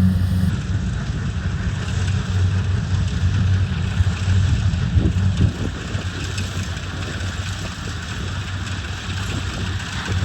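Rice combine harvester engine running steadily, a low hum with a rushing noise over it.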